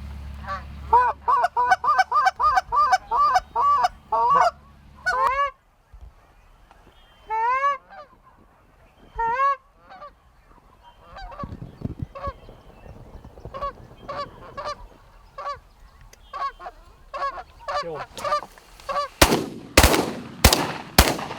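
Canada geese honking: a rapid run of honks, then single rising honks and fainter calls. A few sharp bangs near the end.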